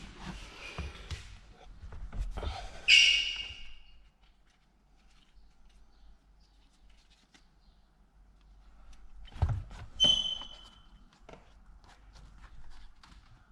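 Hands handling tools and parts during car interior reassembly: rustling and knocks, with a sharp ringing metallic clink about three seconds in and a shorter one about ten seconds in.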